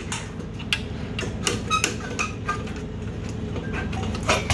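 Scattered metallic clicks and clinks, some ringing briefly, from tools working loose the motorcycle's mufflers, over a steady low hum.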